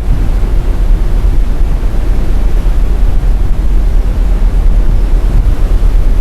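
Strong wind buffeting the camera's microphone on an open ship deck, a loud, constantly fluttering rumble.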